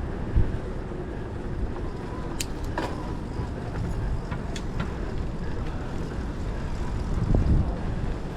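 Wind rumbling on the microphone and rolling road noise while riding an electric hybrid bike, with a few short sharp clicks about two to five seconds in.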